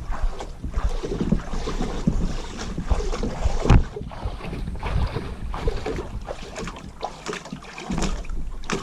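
Wind buffeting the microphone, with irregular splashes and knocks from a kayak being hand-paddled on the water.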